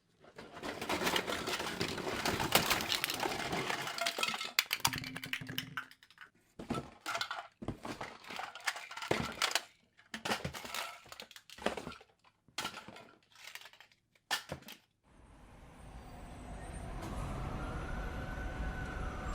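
A run of clattering, crashing noise full of sharp clicks, breaking into separate bursts with short gaps after about six seconds. After a pause a low rumble swells, and near the end a siren-like wail rises and falls.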